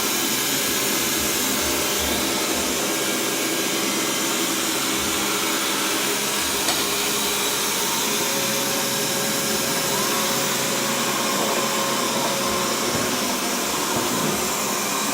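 Xiaomi robot vacuum cleaner running, a steady, even motor-and-airflow noise.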